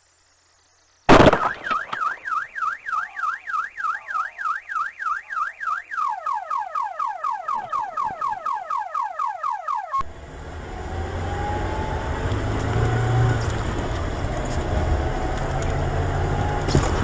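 Car alarm sounding. It opens with a sharp bang, warbles up and down a few times a second, then switches to a faster run of falling sweeps. About ten seconds in it cuts off abruptly to steady vehicle road noise with a low rumble.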